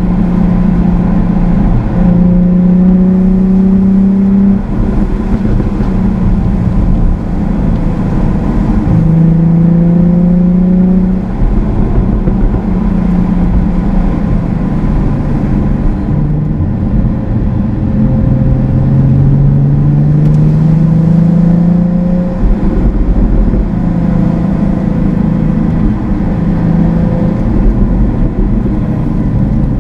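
Jaguar F-Type's engine heard from inside the cabin while driving, the revs climbing and stepping back down again and again with each gear change.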